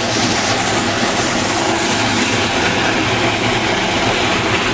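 Rainwater rushing along a flooded street gutter into a storm sewer: a loud, steady rush of water without a break.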